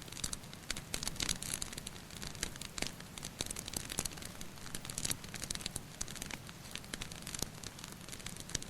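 Wood fire crackling: dense, irregular pops and snaps over a steady low rumble and hiss.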